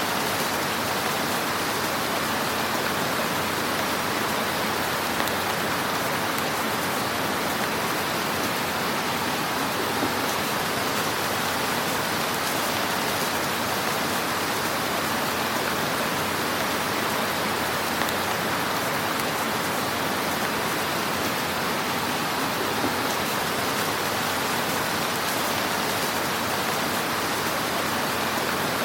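Wood fire burning in a fireplace: a steady, dense hiss of crackling flames, with a few small pops now and then.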